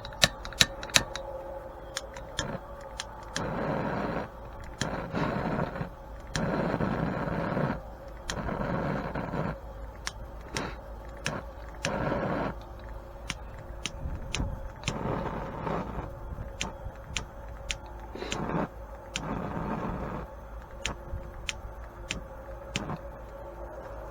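Propane torch being worked: sharp irregular clicks with short bursts of hissing flame, each lasting about a second, that keep dying away. The owner puts this down to the propane being too cold to give enough pressure.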